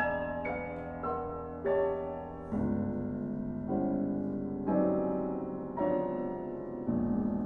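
Piano playing live: a line of struck single notes about two a second, then from about a third of the way in, lower held chords changing roughly once a second.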